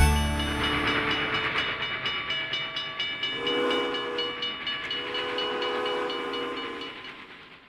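A train running with a steady, rhythmic clatter, then two long whistle blasts, the second longer; the whole sound fades out toward the end.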